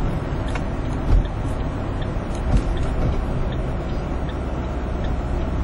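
Steady road and engine noise from inside a moving van on a highway, a low rumble with a few faint clicks.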